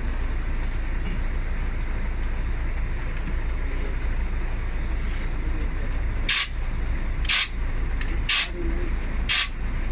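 Steady low engine rumble, then four short hisses of compressed air about a second apart in the second half.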